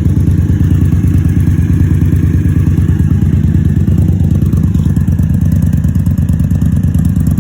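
Indian Scout Sixty V-twin engine idling steadily through Vance & Hines Grenades exhaust mufflers, an even low rumble.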